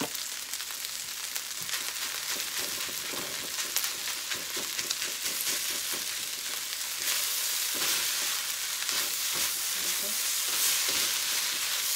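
Shrimp fried rice with egg sizzling in a hot metal wok while a silicone spatula stirs and scrapes through it, with scattered short clicks and scrapes of the spatula on the pan. The sizzle grows louder about seven seconds in.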